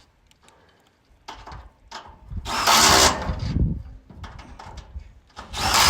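Power drill-driver running in two bursts of about a second each, one a little before the middle and one near the end, as it drives fasteners into solar racking.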